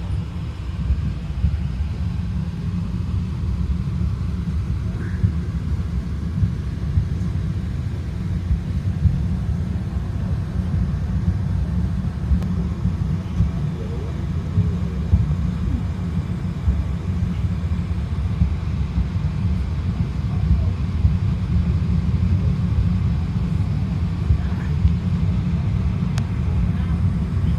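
Cog railway train climbing a steep grade, heard from inside the passenger car: a steady low rumble with small irregular knocks.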